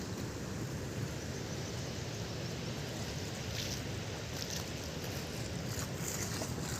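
Steady low rushing noise with no clear pitch, with a few faint, brief hisses midway.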